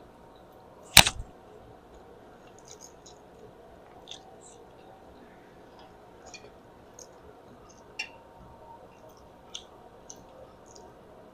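Quiet eating sounds: one loud sharp clink of tableware about a second in, then a few fainter clicks and small mouth sounds.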